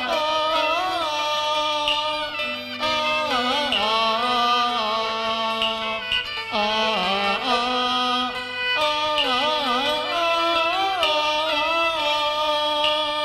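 Cantonese opera music: a traditional Chinese ensemble plays a melodic passage with sliding, ornamented lines, typical of the bowed fiddles that accompany the singers.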